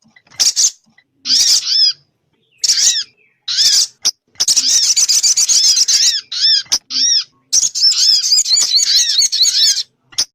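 Sogun bird lure call: bursts of high, arching chirps repeated fast in short phrases. Two long, dense chattering runs come in the second half.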